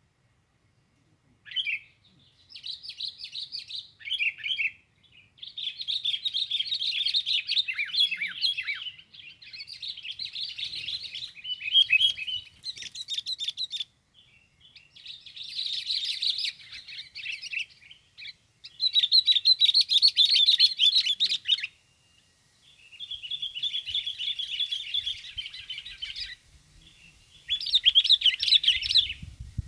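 Small songbird singing in bursts of rapid, high chattering phrases, each a second or two long, with short pauses between, used as a call to lure wild birds.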